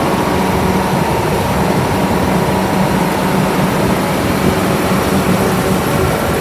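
John Deere S670 combine running steadily, a constant loud machine hum with a held tone.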